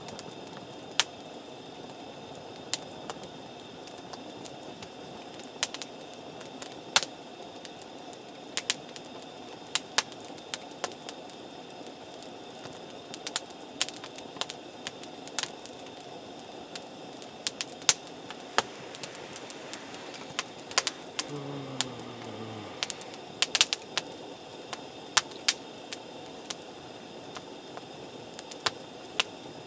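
Wood campfire crackling: irregular sharp pops and snaps, a few at a time, over a steady low background.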